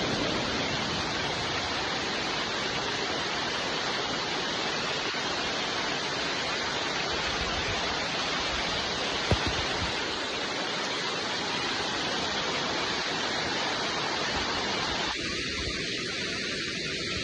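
Steady rain falling, an even hiss of drops. A single sharp tap comes about nine seconds in, and the tone thins slightly near the end.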